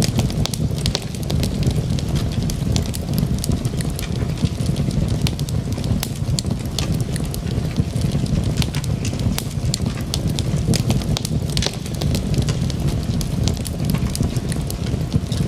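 Log fire burning in a fireplace: a steady low rumble of the flames with frequent sharp crackles and pops from the burning wood.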